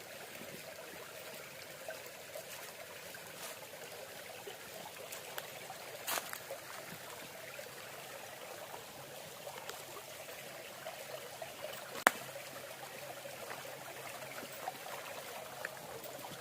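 Low-water stream trickling steadily over a rock slab at a small waterfall. A single sharp click sounds about twelve seconds in.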